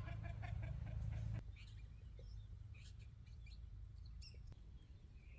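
Birds calling over a steady low hum that stops suddenly about a second and a half in, after which scattered faint chirps go on.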